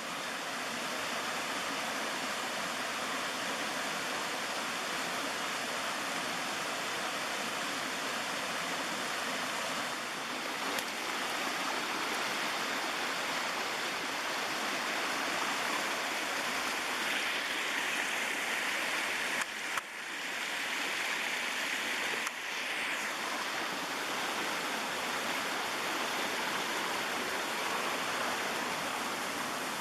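Small mountain stream pouring over low waterfalls: a steady, even rush of water, with two short dips in level a little past two-thirds through.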